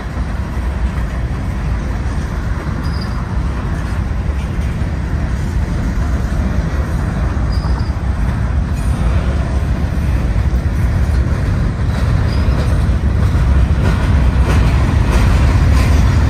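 Union Pacific freight train of covered hoppers and boxcars rolling past close by: a steady rumble of steel wheels on the rails that grows gradually louder.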